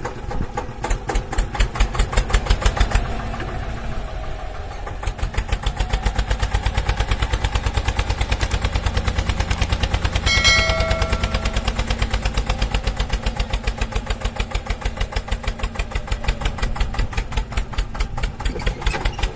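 Engine-like running of a DIY miniature tractor, a steady throbbing of about five beats a second that swells and eases a little but keeps going. About ten seconds in, a short pitched tone sounds over it for roughly a second.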